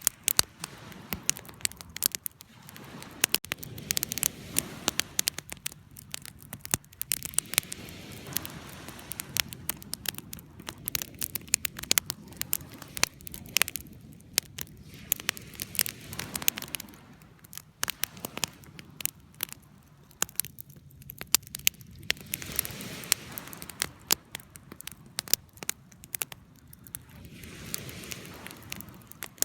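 Wood campfire crackling, with frequent sharp snaps and pops over a low rush of burning that swells and fades several times.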